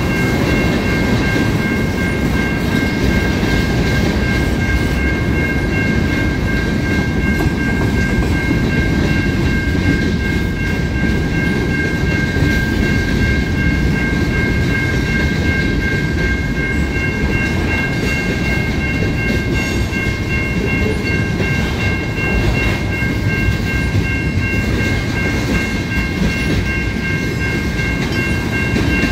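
A train passing a level crossing, a steady heavy rumble of rolling wheels and cars. A steady high-pitched ringing tone is held over it throughout.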